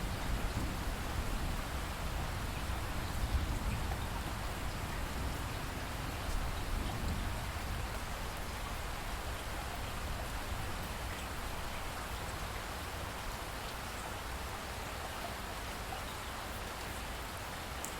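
Steady rain falling, an even hiss of many drops. A low rumble of thunder dies away over the first few seconds.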